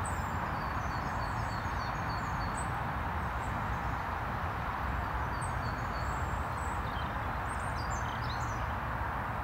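Small birds chirping in short scattered notes over a steady rushing background noise with a low, fluttering rumble.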